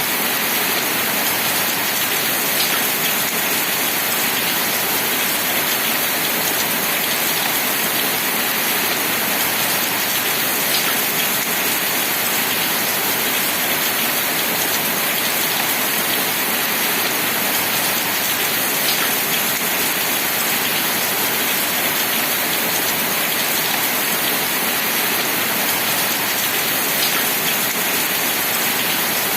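Steady rain falling, an even continuous hiss, with a few single louder drops now and then.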